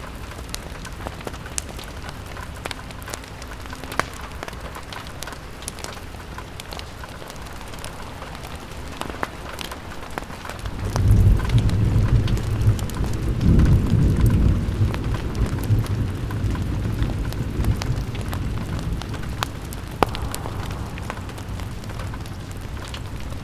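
Rain pattering on a window with scattered sharp crackles and ticks, and a low rumble of thunder that comes in suddenly about halfway through and dies away over several seconds.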